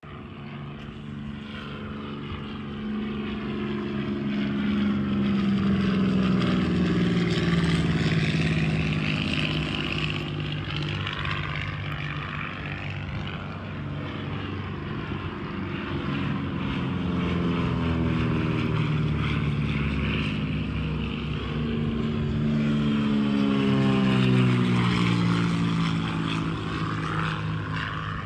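Propeller airplane flying over. The engine and propeller hum swells twice, about a third of the way in and again near the end, and drops in pitch each time it passes.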